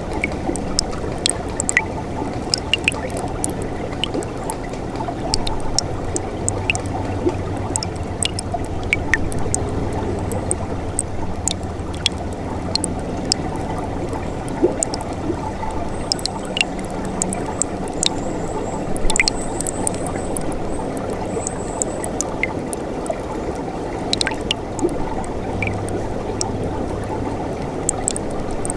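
Mountain stream (gyegok) water running steadily over rocks, with a constant gurgle and many small sharp splashes and drips throughout.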